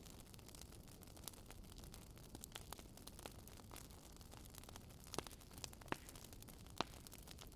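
Wood campfire crackling: a steady scatter of small pops, with a few sharper snaps about five, six and seven seconds in, over a faint, even low rush of river water.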